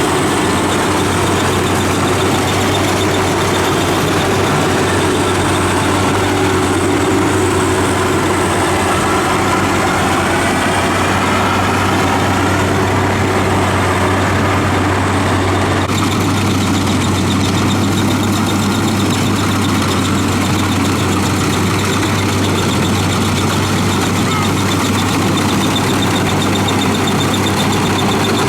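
WD 102 rice combine harvester running steadily, its diesel engine giving a constant low hum under the rattle of the machinery.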